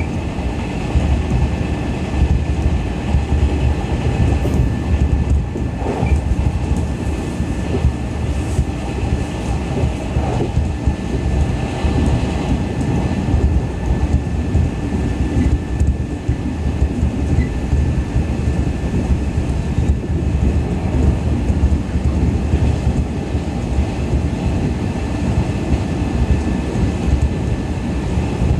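Running noise inside the car of a JNR 113 series electric train at speed: a steady rumble of wheels on the rails with a faint, steady high whine and a few soft knocks.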